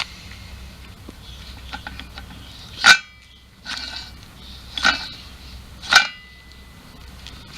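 Three sharp metallic clanks, each with a brief ring, at about three, five and six seconds, with a few lighter clinks between them, over a steady low hum.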